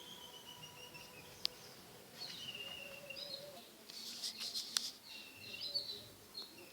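Birds chirping and calling in overlapping, warbling phrases, with a few sharp clicks about one and a half seconds in and again between four and five seconds in.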